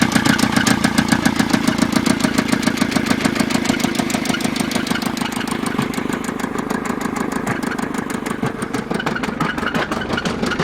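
Isuzu 4JB1T four-cylinder turbodiesel running with a steady, heavy rhythmic knock. The knock came on together with a loss of power and white smoke blowing from the dipstick hole, signs of serious internal damage.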